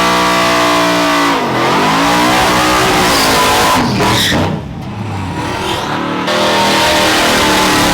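Race truck's engine running loud at high revs. The pitch dips and climbs again about one and a half seconds in; the level falls off about halfway through and then picks back up.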